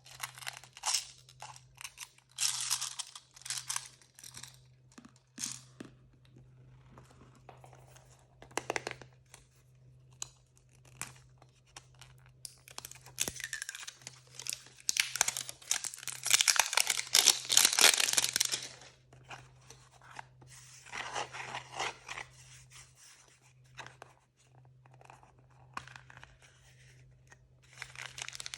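Blind-bag packaging torn open and crinkled by hand, in irregular bursts with short pauses; the longest, loudest stretch of tearing comes a little past the middle.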